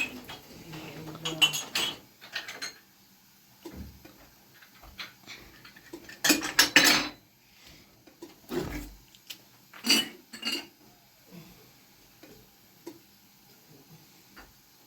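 Scattered clattering and knocking as hard objects are handled and set down: a few sharp clatters, the loudest about six seconds in and again near ten seconds, with a couple of dull thumps between them.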